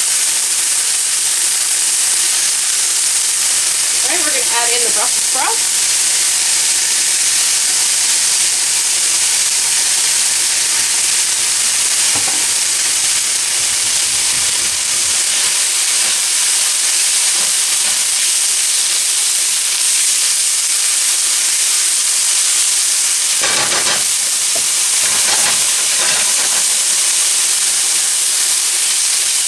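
Chicken pieces sizzling steadily in hot oil in a nonstick frying pan while being stirred with a silicone spatula, with shredded Brussels sprouts frying along with them later on. A few short spatula scrapes come near the end.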